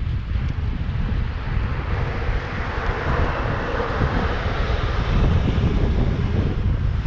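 Wind buffeting the microphone with a steady low rumble, while an engine swells and fades as it passes through the middle.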